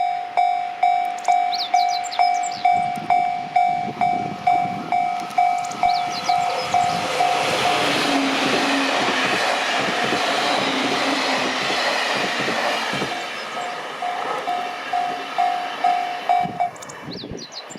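JR Kyushu 813 series six-car electric train passing, its wheel and running noise swelling to a rush through the middle and then fading. A warning bell dings about twice a second before the train arrives and again as it leaves, typical of a Japanese level crossing, and stops near the end.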